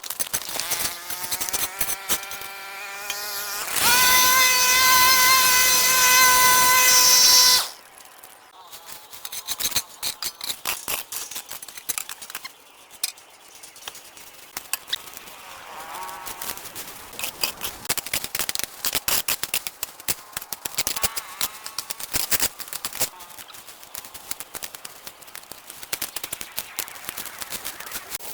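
A small electric power tool spins up with a rising whine, runs loud and steady for about four seconds, then cuts off suddenly. Irregular clicking, snipping and scraping follow for the rest of the time.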